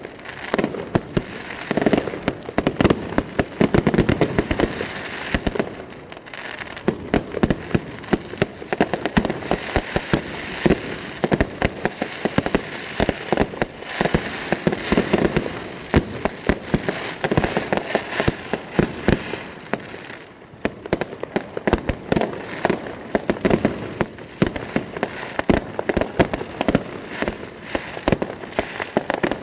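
Fireworks display: a dense, continuous barrage of bangs and crackling explosions, easing off briefly about two-thirds of the way through before picking up again.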